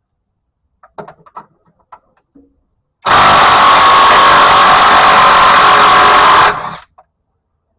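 A few light tool clicks, then about three seconds in a handheld power tool runs loud and steady for about three and a half seconds before cutting off, spinning out a 15 mm transmission mount bolt.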